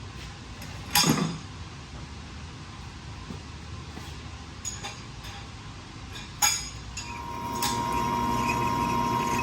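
A few sharp, separate metallic clinks of metal turbo parts and tools being handled during wastegate bushing work; the loudest comes about a second in. About seven seconds in, a steady machine whine starts and grows louder.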